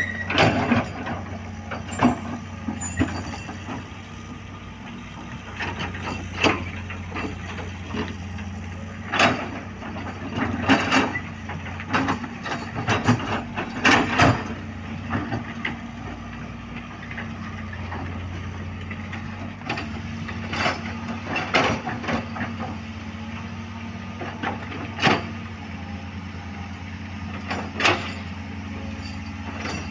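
Heavy diesel machinery running steadily, with irregular sharp clanks and knocks throughout, typical of road-works equipment such as an excavator working.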